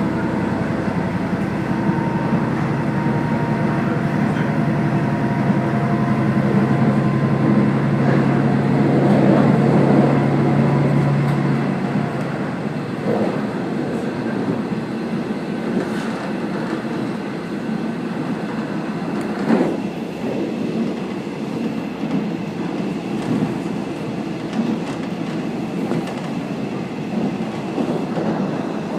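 Running noise heard aboard the Kazekko diesel railcar on the move. A steady low engine drone stops about twelve seconds in, leaving the rumble of wheels on rail with a few sharp clicks.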